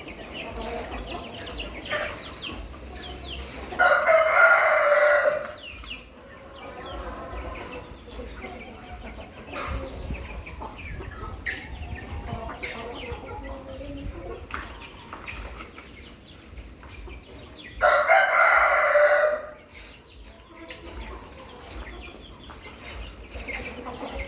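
A rooster crowing twice, about four seconds in and again near eighteen seconds, each crow about a second and a half long, with chickens clucking in between.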